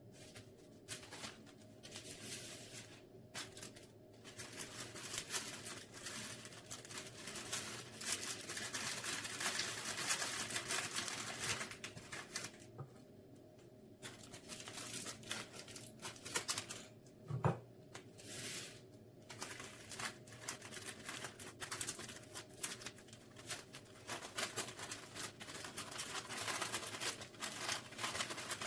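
Irregular rustling and scraping of things being handled, coming and going with short quiet gaps, over a faint steady hum, with one brief low knock about seventeen seconds in.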